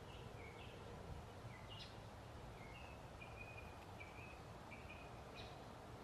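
Faint bird chirps: a dozen or so short high notes at an uneven pace, a few with a quick upward flick, over a low steady background rumble.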